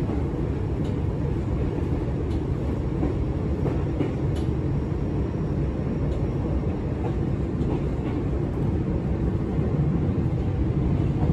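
Running noise inside a resistance-controlled Izuhakone Railway 7000 series electric train: a steady low rumble of wheels on rail, with a few faint clicks scattered through it.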